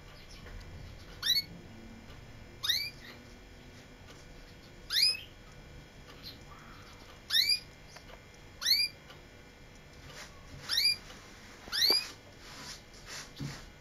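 Pet canary giving seven short call notes, each a quick upward-sweeping whistle, one every second or two.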